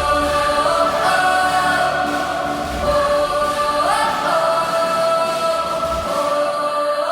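Music: a choir singing long held notes that step and slide from one pitch to the next.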